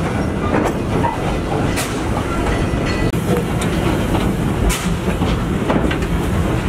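Heritage railway carriage rolling along the track behind a steam locomotive: a steady rumble with scattered, irregular clicks from the wheels over the rails.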